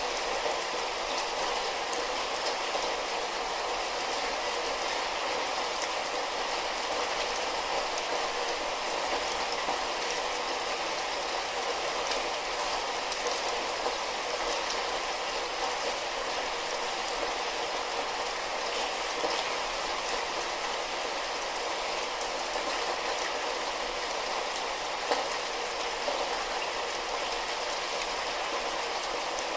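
Light rain falling as a steady, even hiss, with a couple of sharper single drop taps, one a little before halfway and one near the end.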